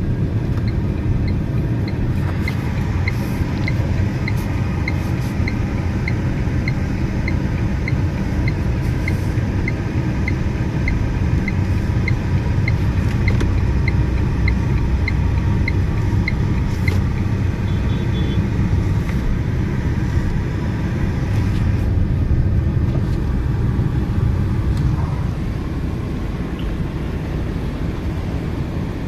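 Steady low rumble of a road vehicle on the move, with light, evenly spaced ticks at a little under two a second through the first half.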